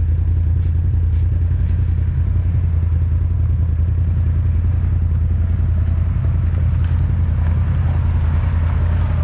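Quad bike (ATV) engine running steadily at low, even revs, loud and with no change in pitch, with a few faint ticks in the first two seconds.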